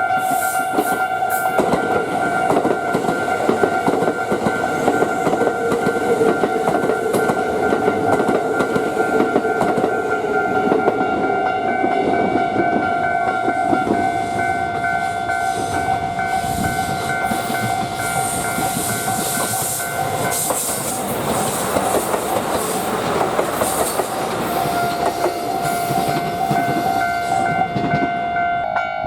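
A train running over a level crossing, its wheels clattering on the rails, while the crossing's electronic warning bell rings steadily. The bell drops out for a few seconds past the middle and then resumes.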